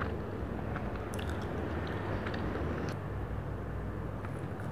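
Chewing and biting a soft cream-filled donut: scattered short, wet mouth clicks, with a bite near the end. A steady low hum runs underneath.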